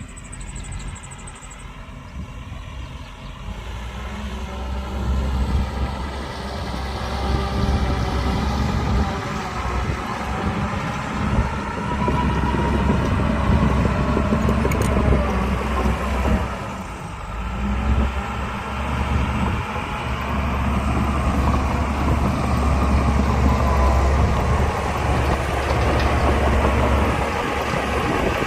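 Heavy diesel earthmoving machinery working: a big engine running under load, building up over the first several seconds, easing off briefly past the middle, then holding steady.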